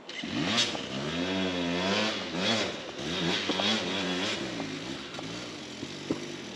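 Dirt bike engine revving hard up and down in repeated swells as the rider fights up a steep off-road hill climb. A sharp click sounds near the end.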